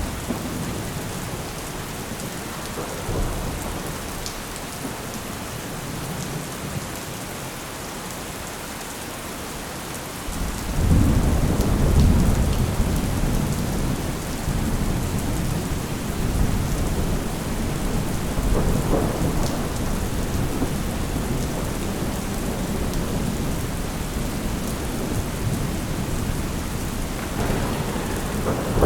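Thunderstorm: steady rain with rolling thunder. A low rumble of thunder swells about ten seconds in and keeps rumbling, and another builds near the end.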